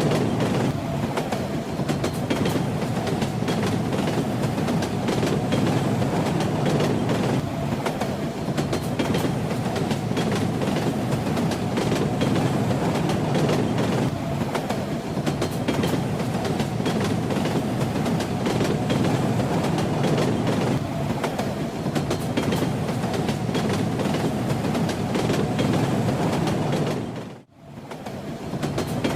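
Moving train: a steady rumble with the clatter of wheels over rail joints. The sound dips out almost to silence for a moment near the end, then comes back.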